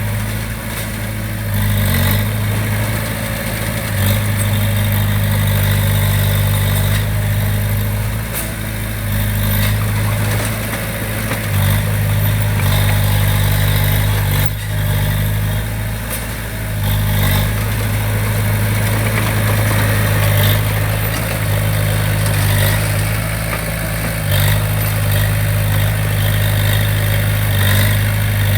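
Diesel engine of heavy construction machinery running steadily with a deep, even hum, with a few short knocks at scattered moments.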